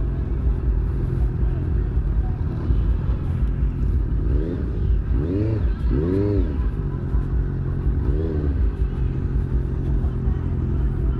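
Motor vehicle engine running on the road with a steady low drone, revved briefly several times: quick rises and falls in pitch around the middle and once more later.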